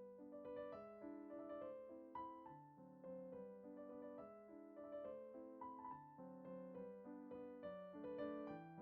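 Quiet background piano music: a gentle melody of separate notes over soft chords.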